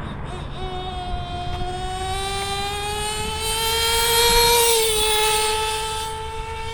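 Single-cylinder JL MAX .28 nitro engine of a Traxxas T-Maxx RC truck screaming at full throttle on a speed run. Its high whine climbs steadily in pitch and is loudest around four seconds in, then dips slightly in pitch and fades a little as the truck passes.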